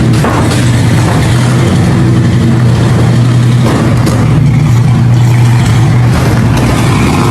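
A large engine running loudly and steadily at one constant speed.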